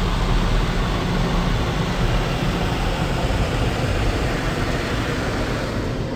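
Drive-thru car wash machinery heard from inside the car during the wax stage: a steady rushing of spray and machine noise with a low rumble, easing slightly near the end.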